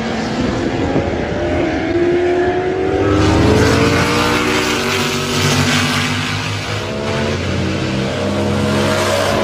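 Several race car engines running hard together, their pitches climbing as the cars accelerate, with the overlapping notes of a pack of cars.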